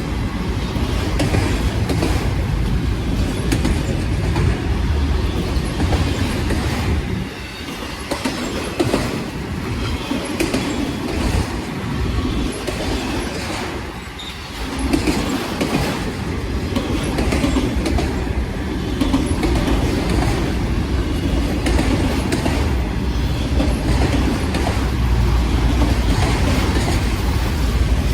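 Freight cars of a long manifest and autorack train rolling past: steel wheels rumbling on the rails with a steady run of clicks over rail joints, easing briefly a couple of times before coming back full.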